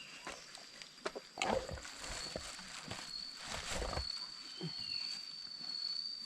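A steady, high insect trill at night, with a few clicks and two louder rustling, rumbling noises in the middle, each lasting about half a second.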